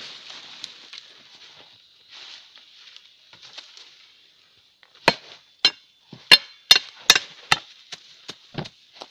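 A hand tool chopping into wood or roots: about eight sharp strikes, roughly two a second, starting about five seconds in.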